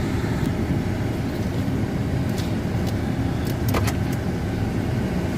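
The Chevrolet Avalanche's V8 engine idling, a steady low rumble heard from inside the cabin, with a few light clicks over it.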